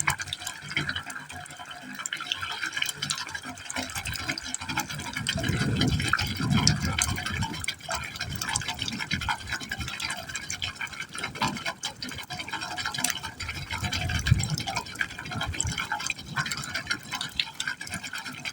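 Water falling into a pipe hole, splashing and trickling without a break, with deeper gurgling surges from the pipe now and then, the longest about five seconds in.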